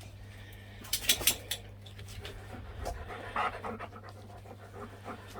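Dog panting, with a quick cluster of sharp clicks about a second in.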